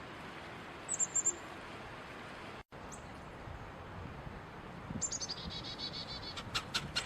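Bird calls: a quick run of four high, thin chirps about a second in, then a rapid rattling trill and a few sharp calls near the end.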